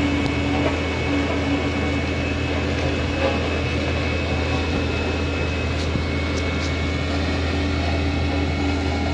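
A vehicle engine running steadily at constant pitch, a low hum with a faint high whine over it and no change in speed.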